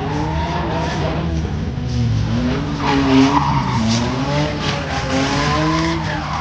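Drift car's engine revving up and down while its tyres skid, with a louder surge of tyre noise about three seconds in.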